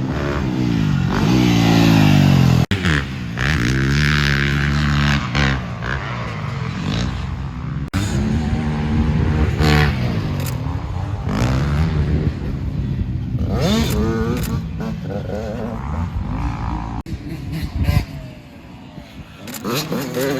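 Dirt bike engines revving hard through the gears, pitch climbing and dropping again and again, with abrupt breaks where the sound jumps to another stretch of racing.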